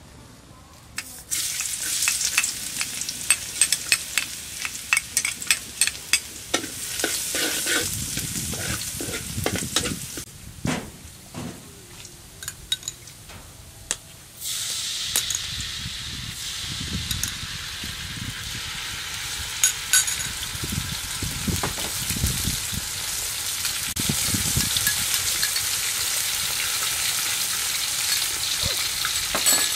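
Minced garlic sizzling in hot oil in a steel wok, with a metal ladle scraping and clicking against the pan. About halfway through, the sizzle jumps suddenly louder and turns to a steady hiss as soy sauce goes into the hot wok.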